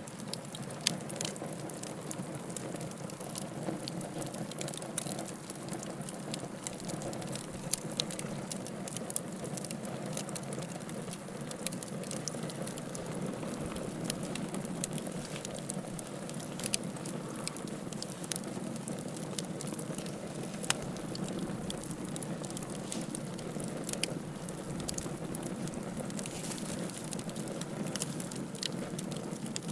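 Wood fire crackling in a fireplace: a steady rush of burning with frequent small crackles and several sharper, louder pops.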